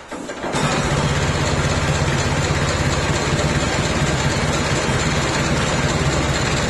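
1927 Fordson tractor's four-cylinder engine running steadily, cutting in abruptly about half a second in.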